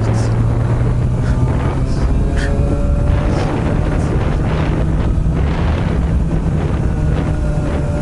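Honda CB400 Super Bold'or's inline-four running under way through an r's gear aftermarket muffler. The exhaust note drops out of one steady pitch about a couple of seconds in, then settles on a higher note that slowly rises as the bike pulls. Heavy wind rushes over the microphone throughout.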